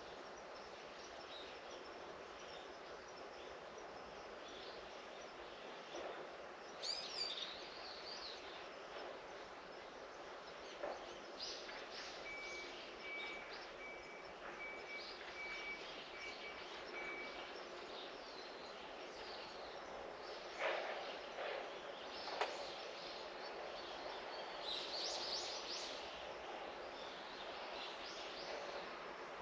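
Outdoor ambience: a steady background hiss with scattered bird calls, clearer chirping about seven seconds in and again near the end. A run of short, evenly spaced pips plays for several seconds in the middle, and two sharp clicks come about two-thirds of the way through.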